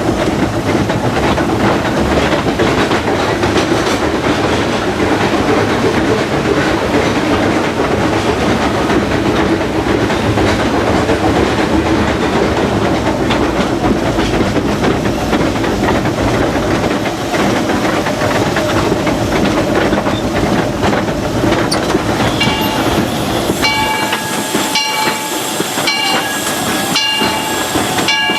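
Steam locomotive Ernest S. Marsh, a 1925 Baldwin, running under way, heard from its cab: a steady rush of steam hiss and wheel-on-rail clatter. About five seconds before the end, several steady high tones sound together over it.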